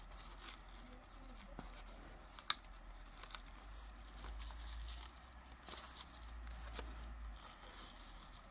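Quiet rustling and crinkling of paper and packaging being handled, with a few sharp clicks, the sharpest about two and a half seconds in.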